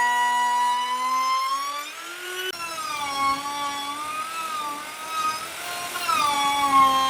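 Electric power tool motor running with a steady whine. From about two and a half seconds in, its pitch shifts and wavers with a rougher noise underneath, as under load. Near six seconds it settles back to the steady whine.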